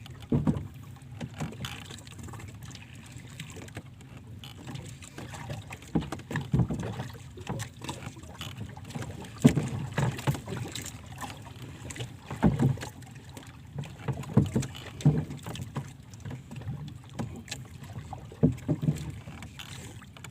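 Water lapping and slapping against a small boat's hull in irregular low thumps and splashes, over a steady low rumble.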